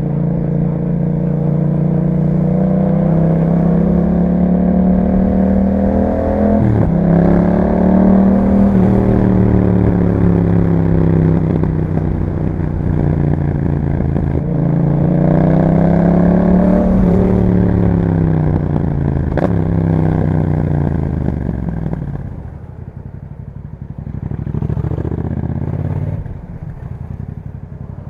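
2021 Yamaha MT-07's parallel-twin engine through an Akrapovic exhaust, under way and accelerating. The pitch climbs, drops sharply at an upshift about seven seconds in, and climbs again. From about sixteen seconds the revs fall away as the bike slows, and near the end it runs lower and quieter.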